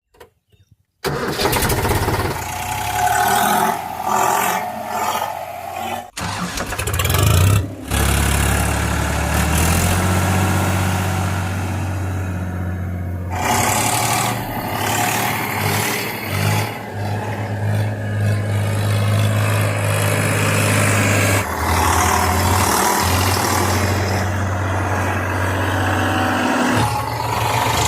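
Tractor diesel engines running and revving under load, starting about a second in.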